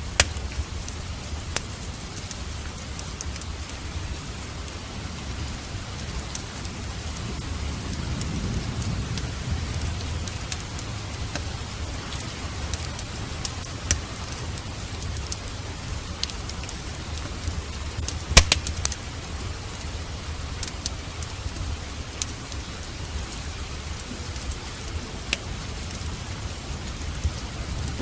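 Steady heavy rain with scattered sharp clicks throughout and a louder cluster of cracks about eighteen seconds in. A low thunder rumble swells and fades around eight to ten seconds in.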